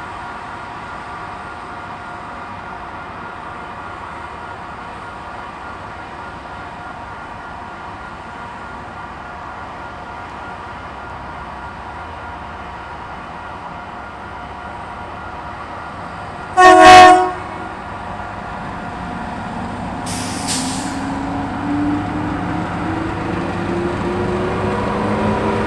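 A train horn sounds one short blast of about a second over a steady background rumble. A brief hiss follows. Then a rising whine climbs in pitch and grows louder as the train comes on.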